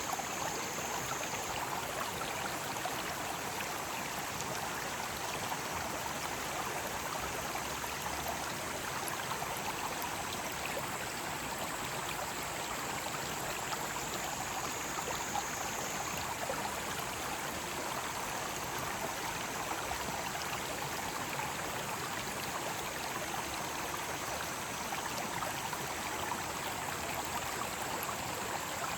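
Mountain stream running over rocks, a steady, even rush of water. Cicadas sing in a high, steady drone above it, louder for a couple of seconds at the start, around the middle and near the end.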